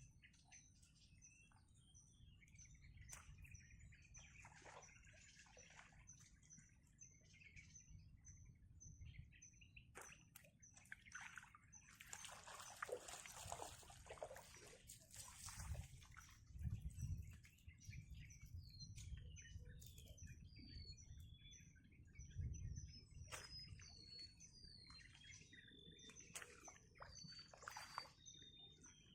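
Birds calling, faint: a steady series of high chips about two a second, with several short falling whistles in the last few seconds. A brief rustling noise rises about twelve seconds in and dies away some four seconds later.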